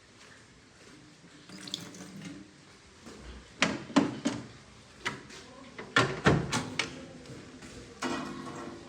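Sharp knocks and clatter at a kitchen sink, several hits in quick succession, with water running from the tap near the end.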